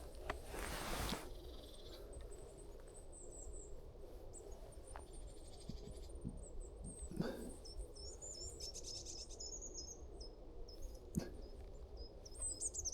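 Small birds calling with thin, high chirps repeated throughout, with a quick run of notes a little after the middle. A rustle sounds in the first second, and a few sharp clicks come later.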